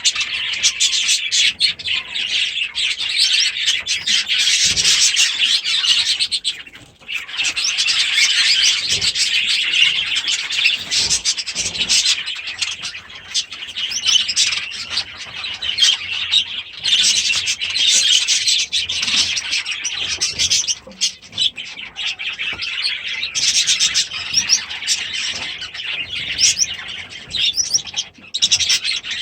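A room of budgies and Gouldian finches chirping and chattering continuously, many birds at once, with a brief lull about seven seconds in.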